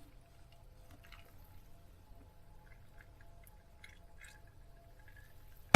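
Water dripping: a few faint, scattered drops over a quiet background hum, with a sudden louder noise starting right at the end.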